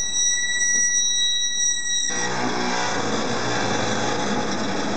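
A steady high whine at several pitches, which cuts off abruptly about two seconds in. A four-wheel drive's engine then runs low and even as the vehicle creeps nose-down over a steep rock drop.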